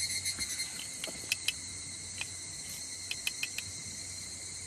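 Night insects, crickets, trilling steadily and high-pitched, with a few sharp clicks about a second in and again around three seconds in.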